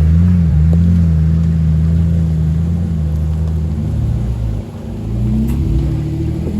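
Jeep Wrangler engine running steadily under load, easing off about four and a half seconds in, then revving back up near the end.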